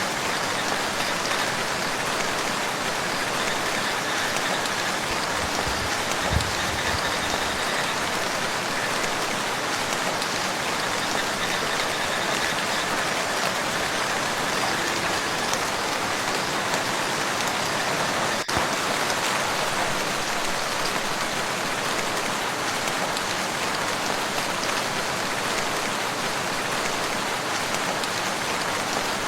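Steady rain falling on a lake's surface, an even, dense patter. There is a brief low thump about six seconds in and a single sharp click past the middle.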